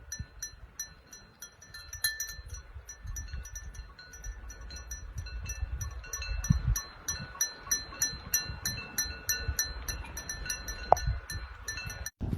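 Many small metal bells clinking irregularly, several times a second, over a low rumble.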